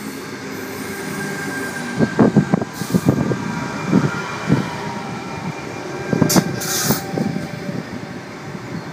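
Sydney Trains Tangara electric train running into the platform, a steady hum with a thin whine, its wheels knocking sharply several times over rough track, with a couple of brief hisses.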